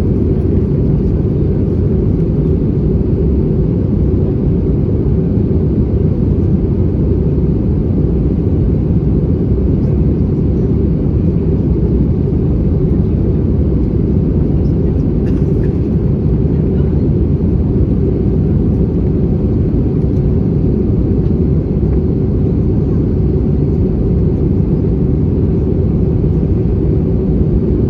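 Steady cabin drone inside an Airbus A320-214 during descent: the CFM56 engines and the airflow past the fuselage make an even, low rumble that holds at one level throughout.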